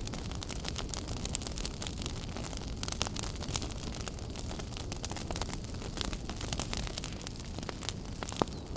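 Wood fire burning in a fireplace: a steady low rumble of the flames with dense, irregular crackling and a few louder pops.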